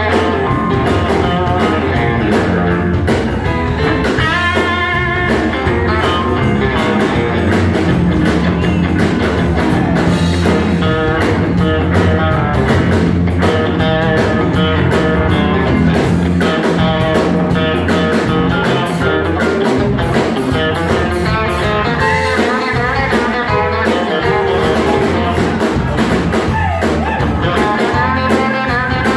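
Rock band playing live, with guitar to the fore over a steady, loud band backing.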